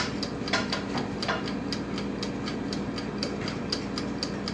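Rapid, evenly spaced ticking from a kitchen appliance, about four ticks a second, over a steady low hum.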